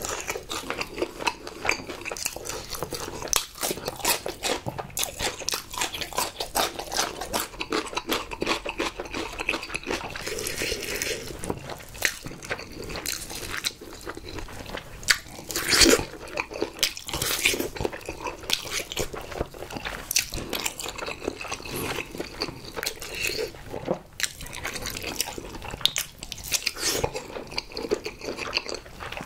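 Close-miked eating sounds: steady wet chewing with irregular crunchy bites into spicy glazed fried chicken and a seared whole block of Spam, with one louder crunch about sixteen seconds in.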